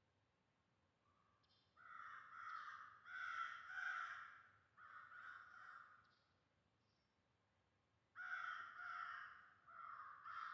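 Crow cawing: two runs of harsh caws, the first about two seconds in and the second about eight seconds in.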